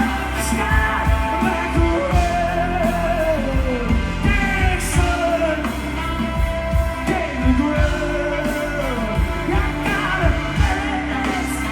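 Live rock band playing loudly, with drum hits and a voice singing long, sliding wordless notes over the band.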